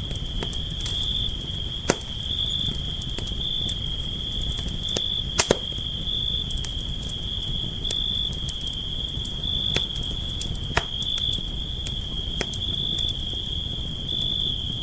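Campfire crackling, with a few sharp pops about two, five and a half, eleven and twelve seconds in, over a low steady rush. A steady high cricket trill runs underneath.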